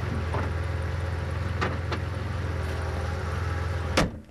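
Warmed-up GM 3.1 (3100) V6 engine idling steadily, with a few faint ticks. A sharp click near the end is followed by a sudden drop in loudness.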